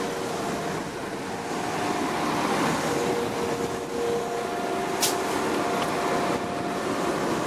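Diesel multiple unit pulling out past the platform: engine and running noise with several steady whining tones over it. A short sharp click about five seconds in.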